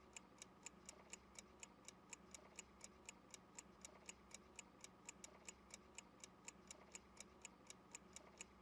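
Clock-ticking sound effect, faint and even, about four ticks a second over a low steady hum, timing a pause left for the learner to answer.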